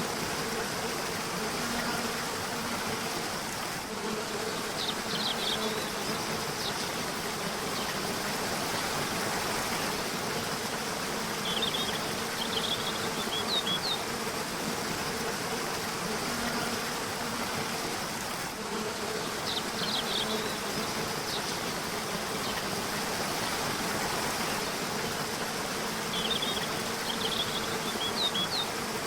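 River or waterfall water rushing as a steady hiss, with short groups of high bird chirps several times. A low buzzing hum swells and fades underneath.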